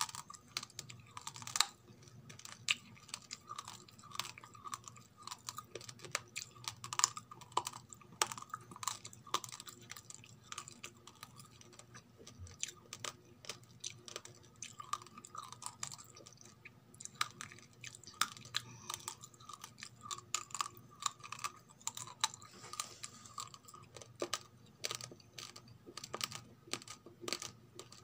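Raw rice grains being crunched and chewed close to the microphone: many sharp, irregular cracks in quick succession.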